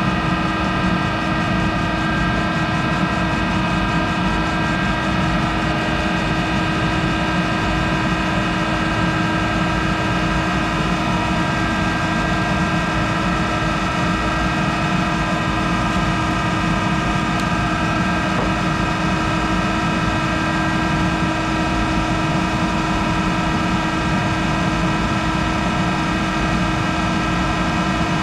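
Monarch 10ee toolroom lathe running steadily while machining a hardened tool holder: an even mechanical hum with several held tones and no change in pitch or level.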